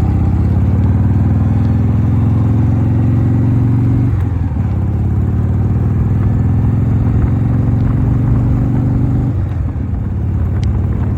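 1988 Harley-Davidson Softail's Evolution V-twin running under way, its note climbing as the bike accelerates, dropping briefly about four seconds in at a gear change, climbing again, then falling away near the end.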